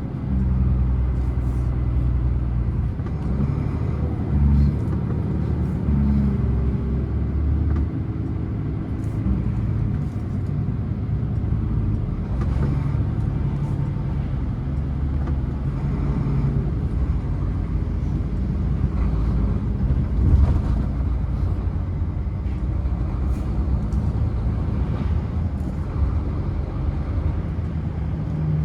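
Scania truck's diesel engine running on a long downhill descent, a steady low drone whose pitch shifts now and then.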